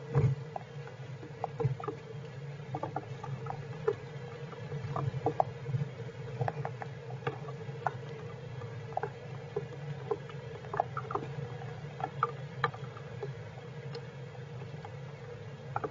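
Rain during a heavy overnight downpour, heard as irregular light ticks and taps, a few a second, over a steady low hum.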